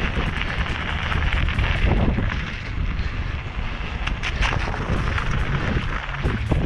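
Wind buffeting the microphone while riding a bike, a rough rumbling noise with scattered knocks.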